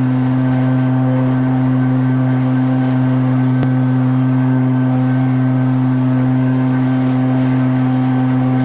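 Echo PB-9010T backpack leaf blower's two-stroke engine running at steady high throttle: one loud, unchanging drone.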